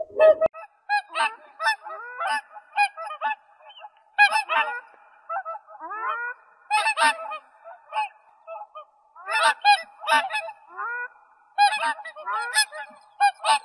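Geese honking: many short, overlapping calls from several birds, coming in bunches every second or two.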